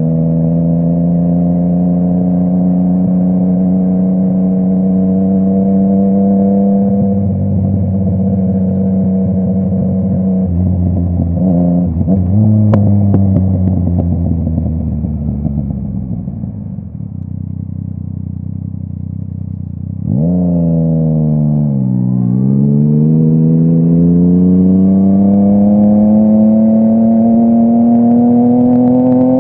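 Yamaha MT-09's inline three-cylinder engine through a full Akrapovic exhaust, under way. The revs hold fairly steady for about ten seconds, then the note falls away and quietens as the throttle is rolled off. About twenty seconds in the throttle opens sharply; the pitch dips briefly at a gear change, then climbs steadily.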